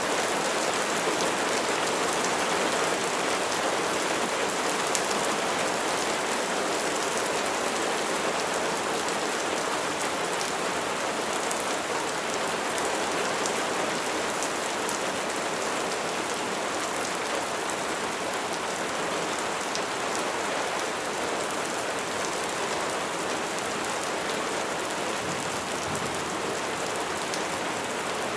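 Steady heavy rain: a dense, even hiss of rainfall with the fine patter of individual drops striking a surface.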